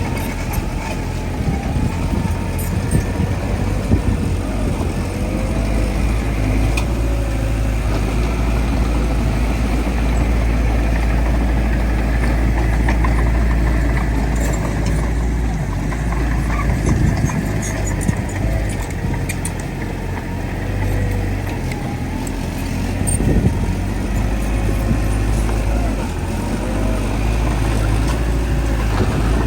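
Heavy diesel engines of earthmoving machinery, a bulldozer working with dump trucks, running steadily with a deep rumble. A fainter whine rises and falls in pitch throughout.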